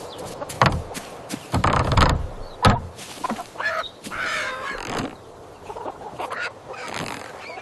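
Chickens squawking and clucking, with several heavy thumps in the first three seconds.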